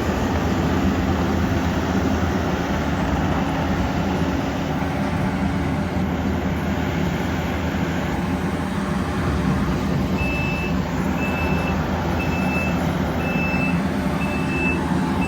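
A large vehicle's engine running steadily, and about two-thirds of the way in its reversing alarm starts beeping, about once a second.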